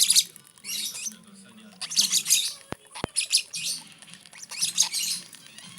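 Young lovebird chicks giving harsh, raspy begging squawks in about five short bursts while being hand-fed. Two faint clicks come about three seconds in.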